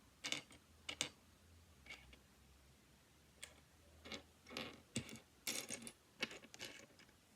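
Loose plastic V-Cube 7 pieces clicking and rattling against each other as they are picked through by hand, a dozen or so light, irregular clicks.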